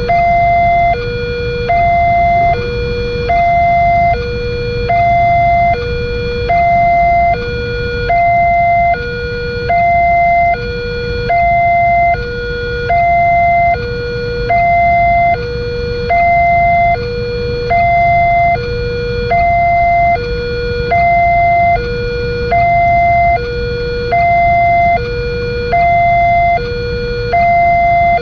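Railway level-crossing warning alarm sounding a continuous two-tone 'ding-dong' signal, alternating between a higher and a lower tone about once a second, which warns that a train is approaching. A steady low rumble lies underneath.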